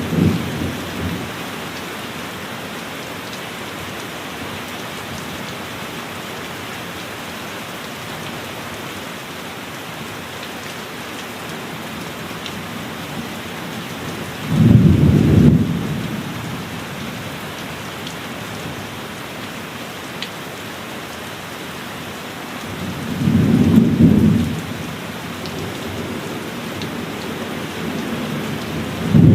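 Steady heavy rain with thunder: a low rumble dying away in the first second, a loud rumble a little past halfway, another about three-quarters through, and a third starting at the very end.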